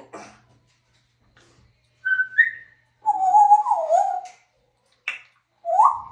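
African grey parrot whistling: a short rising whistle about two seconds in, a longer wavering whistle from about three to four seconds, a sharp click near five seconds and another rising whistle near the end.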